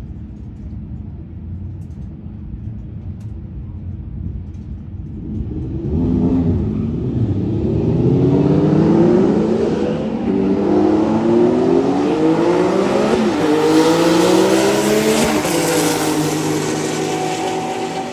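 A car engine accelerating hard through the gears: low and steady at first, then about six seconds in it gets loud and climbs in pitch, dropping back at each of about three upshifts before easing off near the end.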